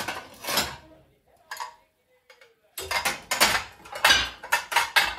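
Dishes and cutlery clattering as they are handled: a few clinks and knocks at the start, one around the middle, then a quick run of clinks and knocks through the last couple of seconds.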